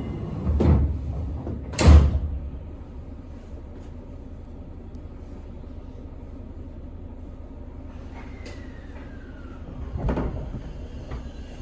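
Inside a Seibu 6000 series train car: two loud thumps in the first two seconds, then a steady low rumble. A faint falling whine comes near the end, and another thump about ten seconds in.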